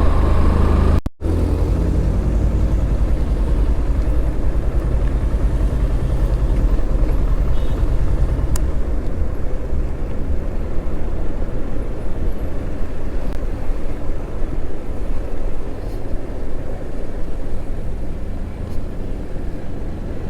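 Motorcycle running along the road with wind rushing over the microphone. The sound cuts out completely for an instant about a second in.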